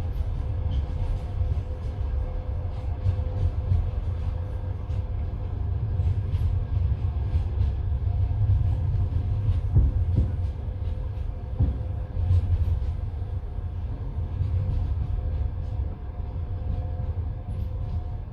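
Passenger train carriage running along the track, heard from inside: a steady low rumble of the wheels with scattered light rattles and a faint steady hum, and a couple of heavier knocks about ten and twelve seconds in.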